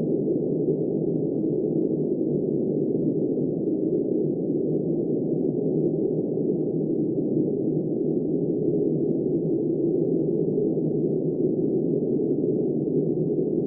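Steady blizzard wind, a low, muffled, unbroken rush with a faint hum of held tones in it, like wind howling.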